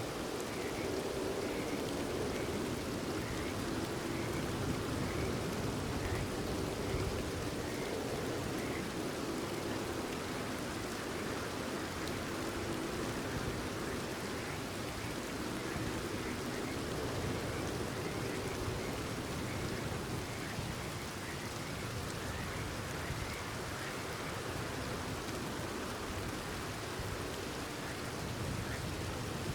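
Steady rain falling, with frogs calling through it as a faint repeated chirp.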